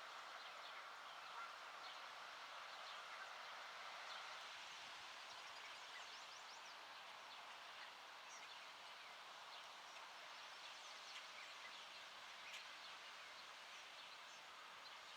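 Faint outdoor birdsong: many small birds chirping, with short high calls scattered throughout over a steady background hiss.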